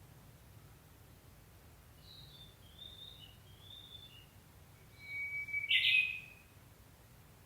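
Japanese bush warbler singing: a few soft chirping notes from about two seconds in, then a held whistle about five seconds in that breaks into a loud, quick flourish, the warbler's 'hoo-hokekyo' song.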